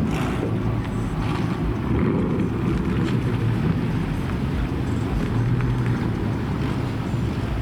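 Car engine running steadily, a low, even sound without revving.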